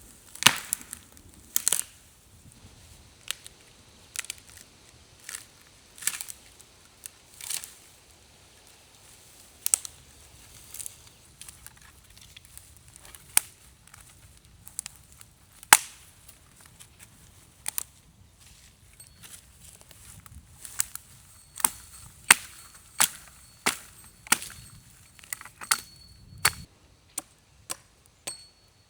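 Wood being chopped with a blade: sharp single blows at irregular intervals, about one a second, coming faster in the second half.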